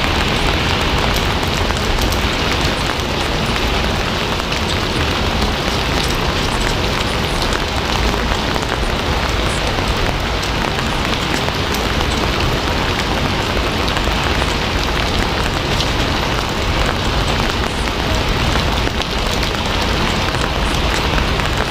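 Steady rainfall: an even, continuous hiss of rain with faint scattered drop ticks.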